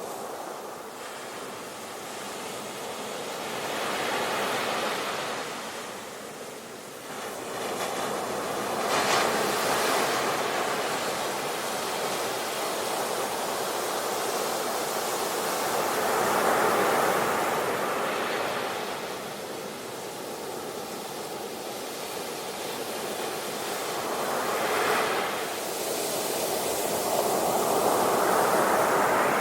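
Ocean waves breaking on a shore, a continuous wash of surf that swells and recedes in slow surges every several seconds.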